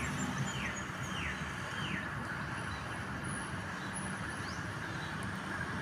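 A small bird calling four short falling chirps, about two a second, in the first two seconds, and one higher falling note later, over a steady outdoor rumble.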